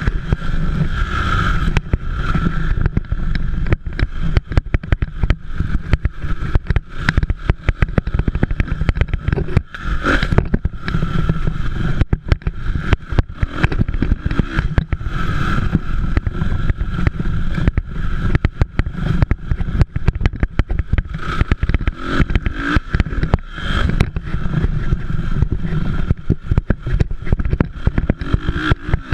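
Motocross dirt bikes racing, their engines running and revving, fading up and fading back again as riders pass. A constant low rumble and crackle run under them.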